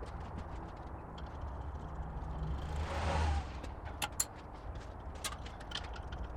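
A steady low rumble with a swell that rises and falls about three seconds in, like a motor vehicle passing by, followed by a few sharp clicks.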